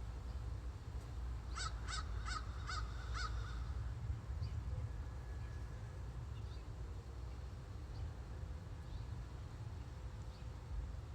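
A crow cawing five times in quick succession, about two seconds in, over a steady low outdoor rumble. Faint short bird chirps follow later.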